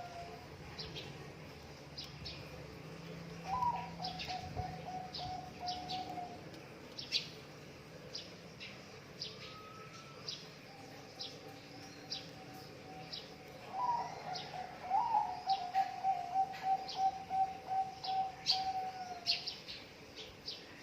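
Zebra dove (perkutut) cooing: a higher opening note followed by a quick run of short, even coos, twice, the second run longer. Sharp, high chirps sound throughout.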